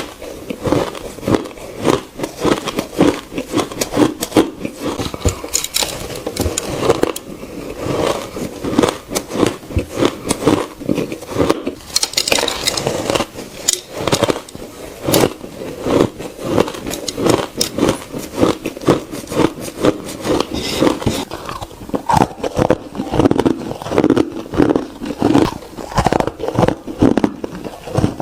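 A person biting and chewing ice cubes close to the microphone: a dense run of sharp, hard crunches and cracks, one after another.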